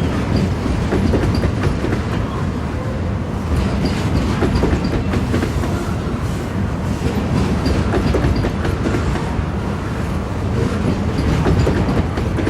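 Freight train of pulp wagons rolling past, wheels clicking over rail joints, with a steady rumble and a few brief faint high squeaks.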